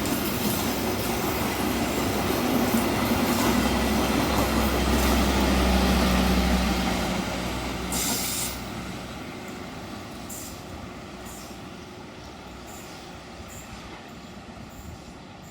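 Passenger train passing close by: loud rumble of the diesel locomotive and coaches on the rails, with a deep low drone in the middle, then fading away after about eight seconds while faint rhythmic clacks of wheels over rail joints recede.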